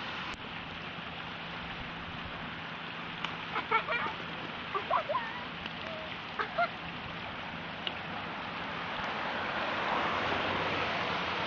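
Steady rush of a small creek swollen with rainwater into a fast, turbulent stream, growing a little louder near the end. A few short pitched calls cut through it between about three and seven seconds in.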